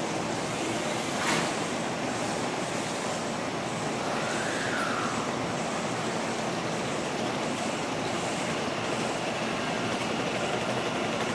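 Steady hum and hiss of a stationary Kintetsu ACE limited express train's onboard equipment filling an underground station platform, with one sharp click about a second in.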